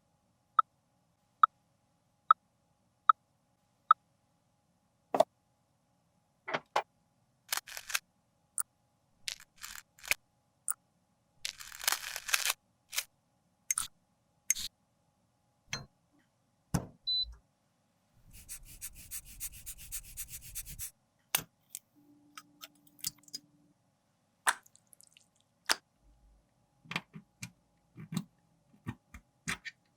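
Close-up handling sounds of makeup tools and containers: a run of sharp clicks and taps, the first five evenly spaced and ringing, then scrapes and rustles, with a longer stretch of steady scraping about two-thirds of the way through.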